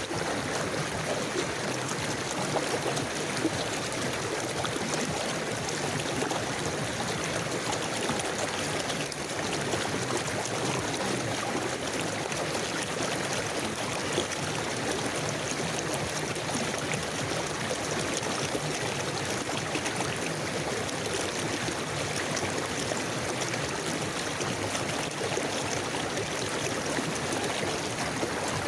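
A river or stream flowing steadily, an even rushing and trickling of water.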